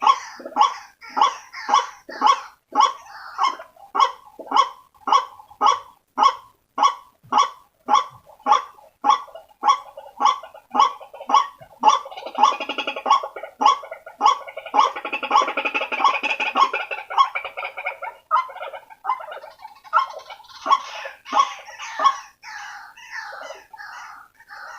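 White-breasted waterhen calling: a fast, even run of sharp repeated calls, about two to three a second. Around the middle they thicken into a dense, overlapping chatter, then turn less regular near the end. It is a recorded call of the kind played as a lure to draw waterhens in.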